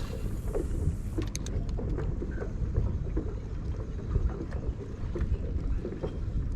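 Water lapping and splashing against a kayak's hull, with scattered small knocks and ticks, over a steady rumble of wind on the microphone.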